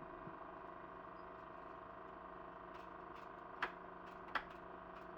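Steady hum and hiss of a Super 8 sound film's playback with no programme sound, broken by two sharp clicks about three and a half and four and a half seconds in.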